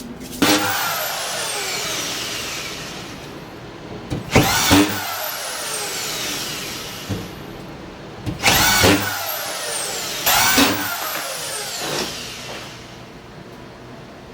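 Power drill run in four short spurts. Each spurt starts with a rising whine that slides back down as the motor coasts to a stop.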